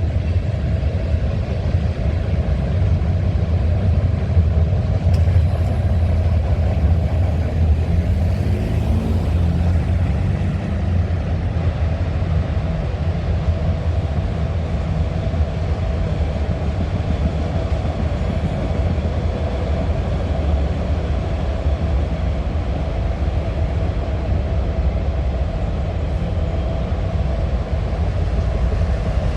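A long train rolling past, a loud steady rumble of its cars on the rails.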